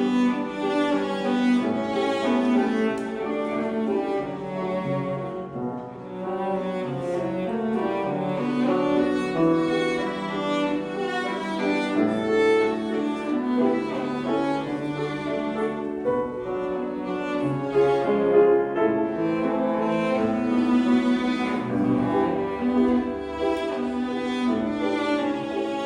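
Cello playing a slow, lyrical melody with piano accompaniment.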